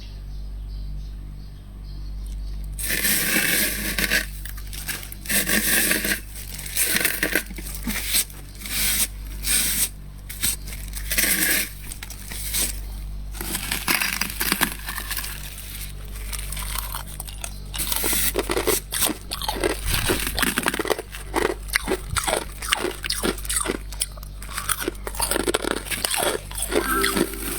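Frost being scraped and crunched by hand: a dense run of short, crunchy scraping strokes, several a second, starting about three seconds in.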